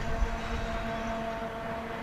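A train running, with a low rumble that is loudest at the start and a steady droning hum over it.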